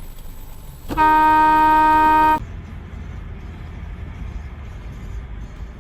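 A car horn sounds one steady blast of about a second and a half, starting about a second in. After it comes a low, steady rumble of road and engine noise.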